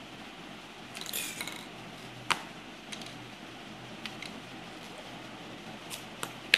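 Light handling of Play-Doh tubs and plastic moulds: a brief rustle about a second in, one sharp plastic click a little later, and a few faint clicks near the end.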